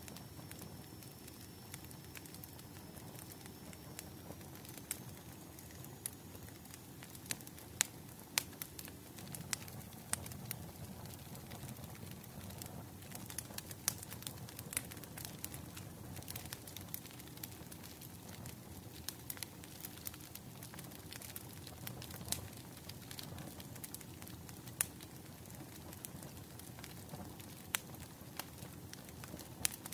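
Bonfire crackling: wood burning with irregular sharp pops and snaps over a low, steady rush of flames.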